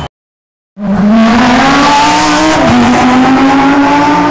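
Audi R8 LMS ultra GT3 race car's V10 engine accelerating hard, its pitch climbing steadily, with one quick dip and recovery about two and a half seconds in. It starts after a short dead-silent gap.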